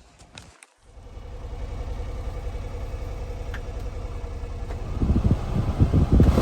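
A few short clicks, then the 1997 Honda Acty mini truck's small three-cylinder engine comes in about a second in and runs steadily. It grows louder and rougher near the end.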